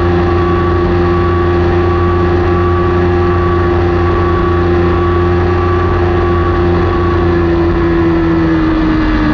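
Kawasaki Ninja 400 parallel-twin engine running at steady high revs under the rider, its note holding level and then falling away over the last second or so as the throttle is rolled off.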